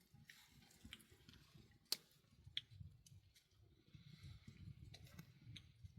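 Near silence with a few faint, sharp clicks, the clearest about two seconds in, over a low background rumble.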